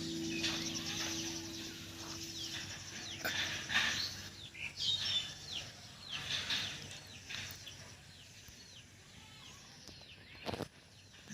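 Birds calling: many short, high chirps that sweep downward, repeated throughout, while background music fades out over the first few seconds. A single sharp knock comes near the end.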